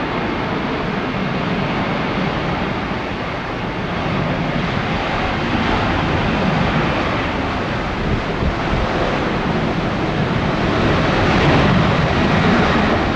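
Jet airliner engines running loud and steady, a broad rumble that swells a little in the last few seconds.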